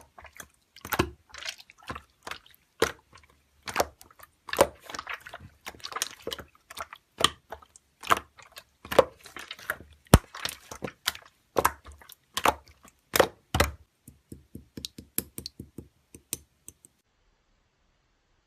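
Slime being squeezed and poked by hand, with wet squishes and sharp clicks and pops about one or two a second. After about fourteen seconds the clicks become lighter and quicker, and they stop about seventeen seconds in.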